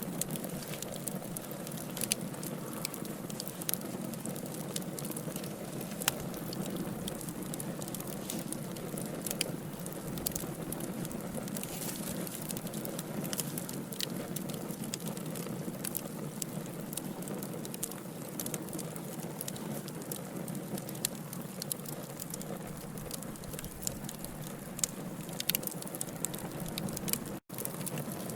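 Burning logs in a wood fire: a steady hiss with frequent sharp crackles and pops. The sound cuts out for an instant near the end.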